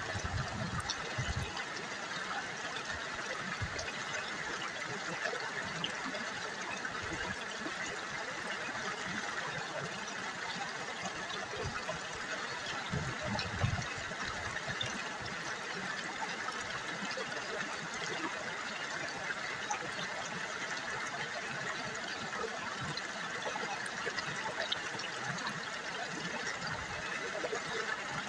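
River water trickling and babbling steadily over stones, with small splashes and gurgles throughout.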